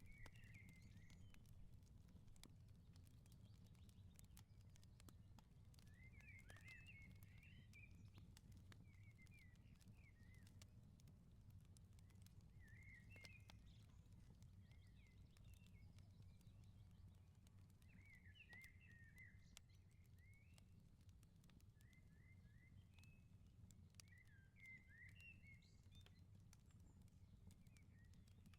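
Faint firepit with scattered small crackles and pops over a steady low rumble, and a bird twittering in short chirpy phrases every few seconds.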